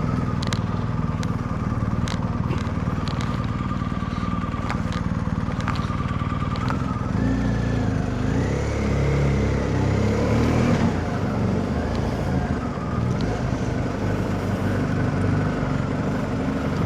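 BMW R1250GS boxer-twin motorcycle running on the road. The engine note rises about seven seconds in, holds, and eases back around eleven seconds.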